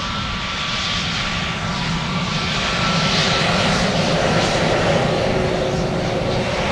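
Jet airliner engines running in a steady roar that grows slowly louder, with wind buffeting the microphone.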